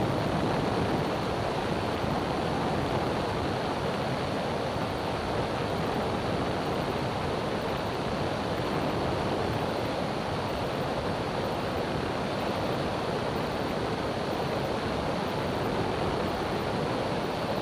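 Steady cabin noise of a light experimental aircraft in flight: the engine and airflow merge into an even, unbroken hiss with no change in level.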